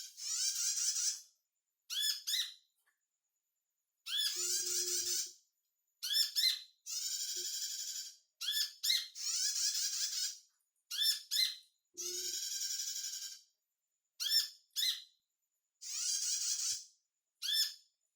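Sunbird (kolibri) song from a lure recording: about a dozen short, high, buzzy chattering phrases in quick succession, separated by completely silent gaps.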